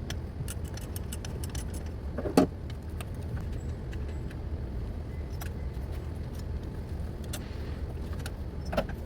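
Ratchet and 10 mm socket clicking and clinking on the battery's positive terminal nut as it is loosened, with many quick metallic clicks in the first couple of seconds, a louder knock about two and a half seconds in and another near the end, over a steady low rumble.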